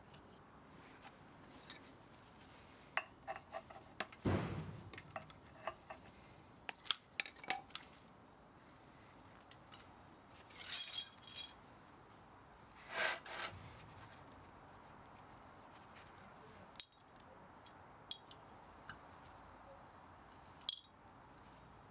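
Metal parts and hand tools clinking and clattering intermittently as an electric pump motor is dismantled for scrap, with a heavier knock about four seconds in and two short scraping rasps around ten and thirteen seconds in.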